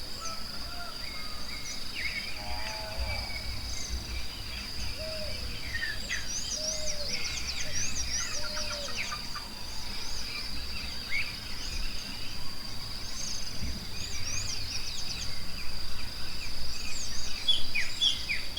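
A forest chorus of many birds chirping and twittering, busiest in the middle and near the end, over a steady high-pitched drone. A few short, lower arched calls are heard in the first half.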